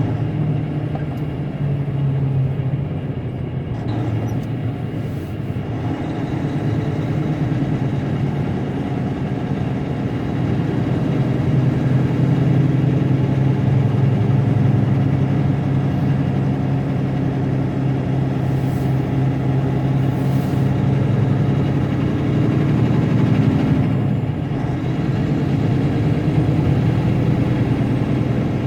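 Semi truck's diesel engine running steadily while driving, a low engine hum over road noise, with small shifts in engine pitch.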